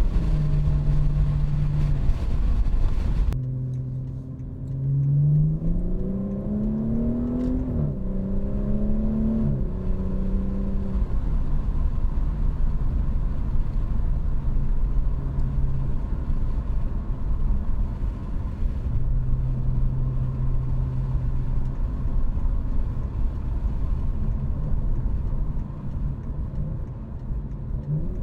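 2019 BMW 540i's B58 3.0-litre turbocharged inline-six with a muffler delete, driving on the road. The engine note climbs in pitch twice about five to ten seconds in, with a drop between, as it accelerates through a gear change, then settles into a steady cruise with road noise underneath.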